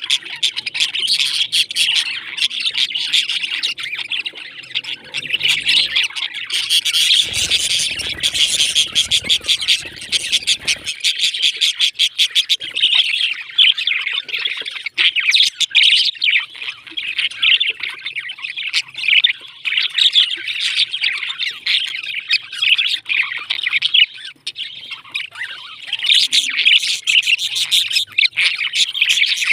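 Pet parrots chirping and squawking continuously, a dense overlapping chatter of many quick high calls.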